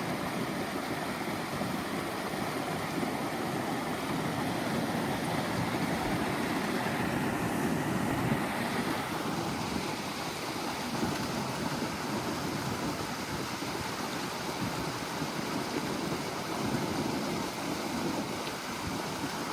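A steady rushing noise of wind and water, with no clear rhythm or engine note.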